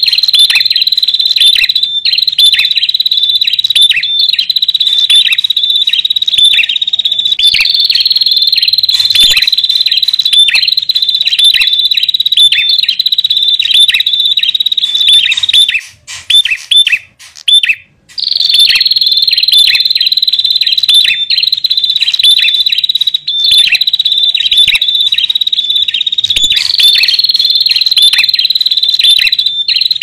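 Male and female prenjak calling together: a fast, high-pitched chatter of repeated short notes over a held high trill, in phrases a few seconds long, with a brief break about halfway through.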